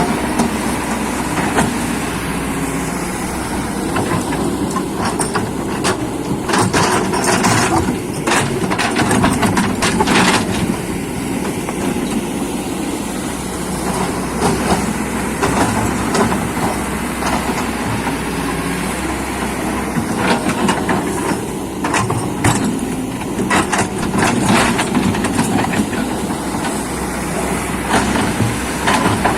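Excavator's diesel engine running steadily under load, with bursts of knocking and clattering during work.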